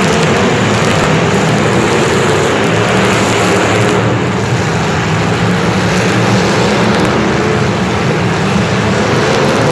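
A steady engine running, with a loud rushing noise over it.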